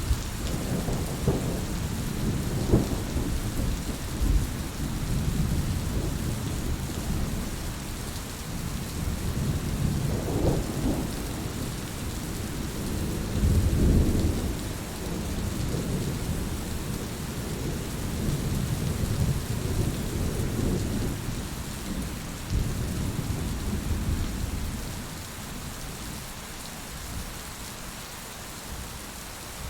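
Heavy rain falling steadily, with low rolling thunder that swells several times and dies away over the last few seconds.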